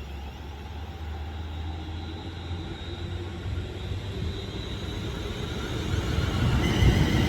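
Class 390 Pendolino electric train approaching along the track, its rumble growing steadily louder, with high-pitched whining tones coming in near the end as it draws close.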